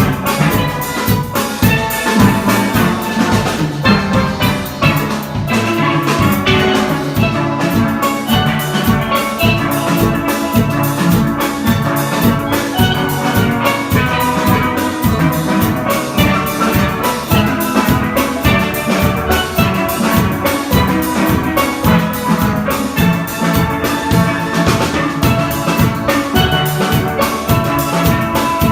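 Steelpan ensemble playing a tune, many pans sounding together over a steady drum beat.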